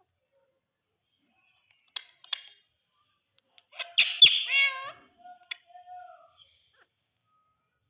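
Indian ringneck parakeet calling: two short clicks about two seconds in, then a loud burst of squawks with quick falling notes about four seconds in, trailing off into softer chatter.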